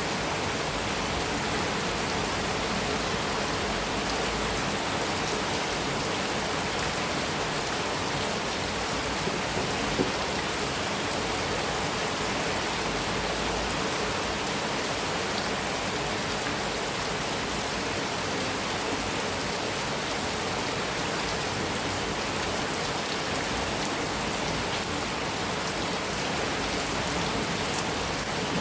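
Heavy rain falling steadily on a metal roof, an even dense hiss with no let-up, and a single sharp tap about ten seconds in.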